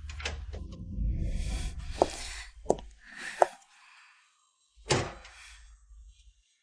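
A low rumble for about three seconds, with several short, sharp knocks over it; the last and loudest comes near the five-second mark.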